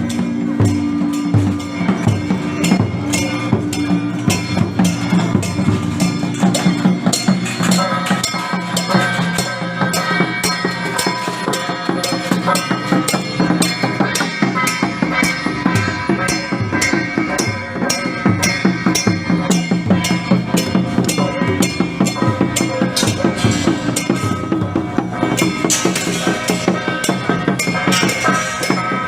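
Procession percussion music: fast, continuous drum and percussion beats, with a sustained pitched melody joining about a quarter of the way in.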